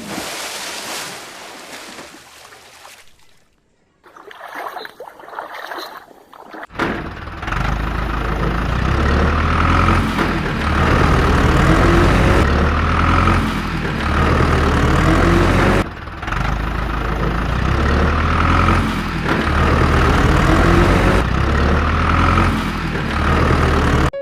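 Heavy vehicle engine running steadily with a deep drone that swells and eases in a repeating cycle about every two seconds. It starts about seven seconds in, after a fading sound and a brief silence.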